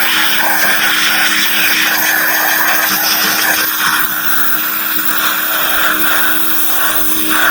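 Pressure washer running steadily: a motor hum under the continuous hiss of the water jet.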